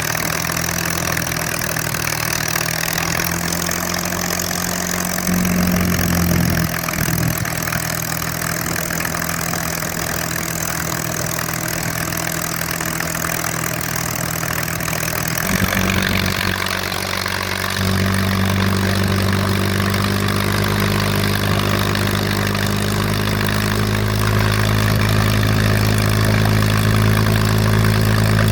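P-51 Mustang's V12 aero engine idling steadily on the ground. It rises briefly about five seconds in, and from about eighteen seconds it settles into a slightly higher, louder idle.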